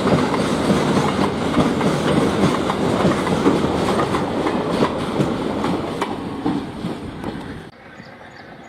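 A train's wagons rattling past over the rails, with a steady clickety-clack of wheels over rail joints. The noise fades and then drops off suddenly near the end.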